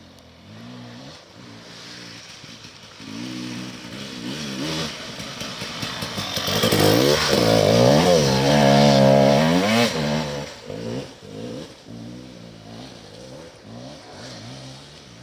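Enduro motorcycle engine revving up and down as the bike rides past, getting louder to a peak in the middle and then fading away.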